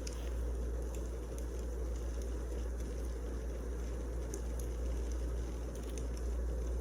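Wood fire burning over a steady low rumble, with scattered sharp crackles and pops from the logs.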